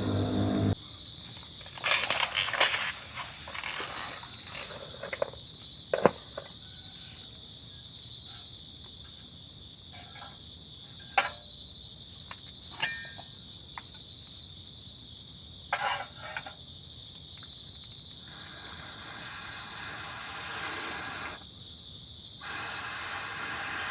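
Insects chirping outdoors in a steady, high, evenly pulsing rhythm. A few sharp clicks or knocks cut in, the loudest about halfway through.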